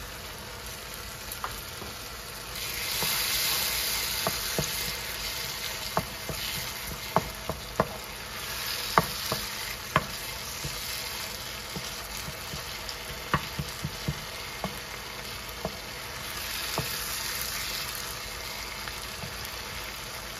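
Onion and tomato masala sizzling in a frying pan as a wooden spoon stirs it, with sharp clicks of the spoon knocking against the pan, most of them between about four and fourteen seconds in. The sizzle swells twice, about three seconds in and again about sixteen seconds in.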